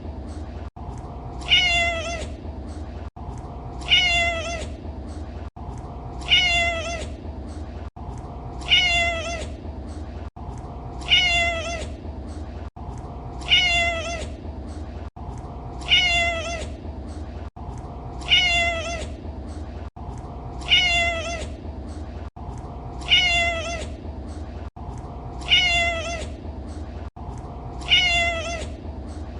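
Domestic cat meowing: the same short meow repeats at even intervals, about every two and a half seconds, over a steady low hum.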